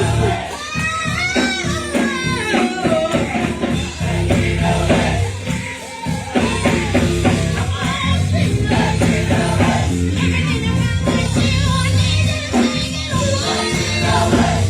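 Gospel choir and band performing a song, with a sung lead vocal over bass and drums.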